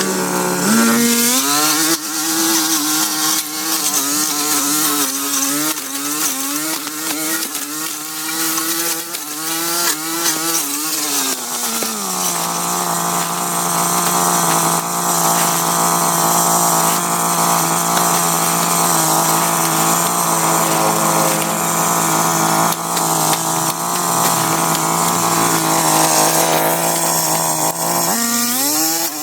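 Small-engine power tool, such as a chainsaw, running at high revs with a wavering pitch. About twelve seconds in it drops to a steady lower pitch, as when the engine is under load in a cut. It revs back up near the end.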